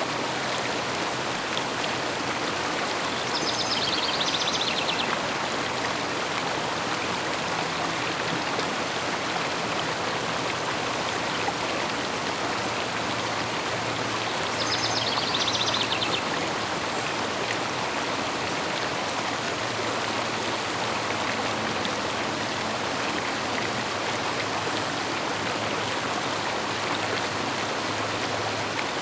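Steady rushing of a flowing river. Twice, a bird calls with a quick trill of rapid high notes over it: about three seconds in and again around fifteen seconds.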